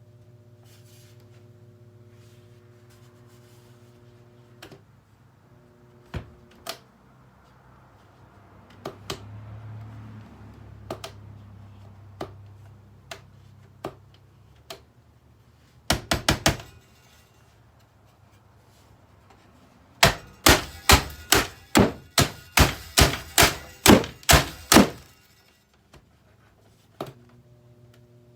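Blows landing on a boombox's casing: scattered single knocks, a short cluster of strikes, then a fast run of about fifteen hard hits, roughly three a second, as it is smashed apart. A faint low hum sits underneath in the first few seconds.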